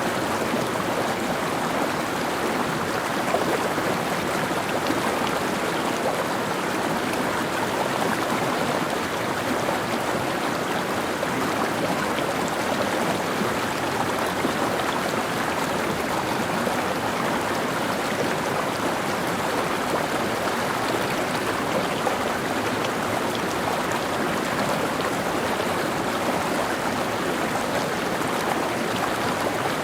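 Mountain stream flowing over rocks: a steady rushing and babbling of water, even throughout.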